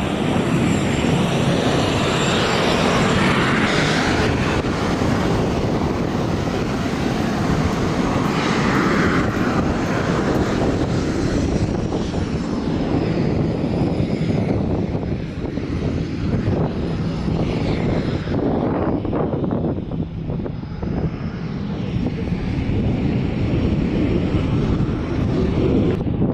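Jet noise of an F-22 Raptor's twin Pratt & Whitney F119 turbofans as it flies a display: a continuous heavy roar with a faint high whine. It eases off for a few seconds past the middle and builds again near the end.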